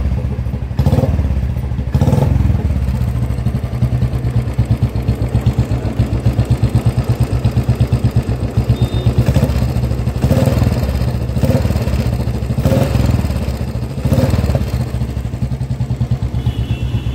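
Royal Enfield Bullet 350's single-cylinder four-stroke engine idling with a steady beat, with a few brief swells in loudness. Its throttle cable is broken, and a rope tied to the carburettor throttle stands in for it.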